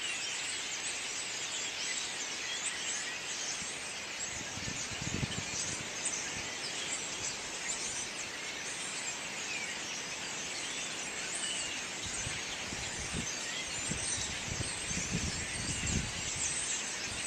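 Large flock of blackbirds calling together: a dense, continuous chatter of many overlapping high chirps and whistles. A few low rumbles come in about five seconds in and again near the end.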